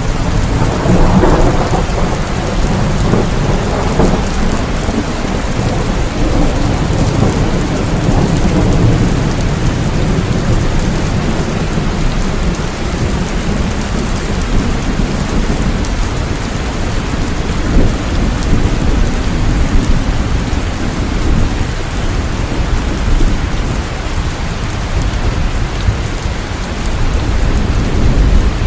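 Steady heavy rain falling, with a low rolling rumble that swells in the first few seconds and then settles back under the rain.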